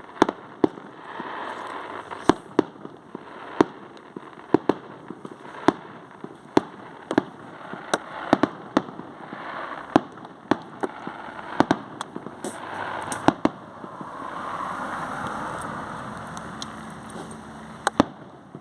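Fireworks going off: an irregular string of sharp bangs, about one or two a second, over a continuous crackle, with a swell of broader noise about fourteen seconds in.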